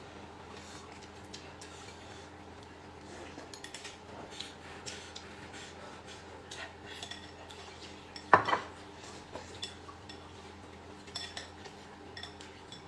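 Eating utensils tapping and clinking against dishes, with scattered light taps and one louder knock about eight seconds in, over a faint steady hum.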